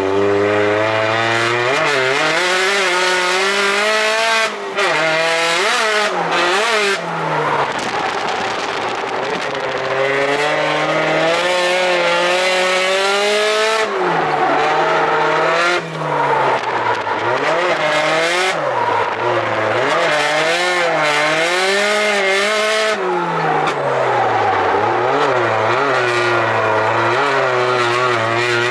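Drift car engine revved hard, its pitch rising and falling again and again through a drift run, with tyre squeal over it and a couple of brief dips in the engine note.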